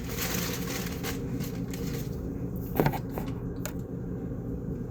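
Bag being handled: a few light clicks and rustles, the sharpest just before the middle, over a steady low hum.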